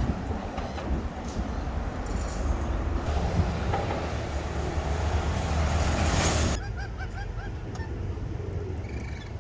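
Steady rumbling noise, like wind or traffic, that cuts off suddenly about two-thirds of the way in; then a quick run of short bird chirps.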